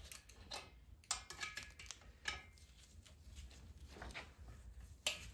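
Light metallic clinks and taps of engine parts and tools being handled: a few sharp, briefly ringing clicks, the loudest near the end.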